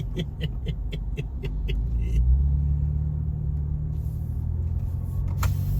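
Ford Ranger Raptor's twin-turbo V6 running with a low, steady drone that grows louder about two seconds in. Over the first two seconds there is a quick run of ticks, about five a second, and a single click comes near the end.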